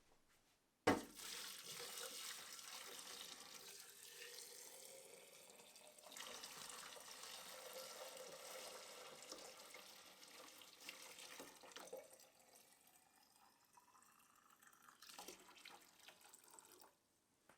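Water running from a tap and splashing, starting with a sharp knock about a second in and cutting off suddenly near the end.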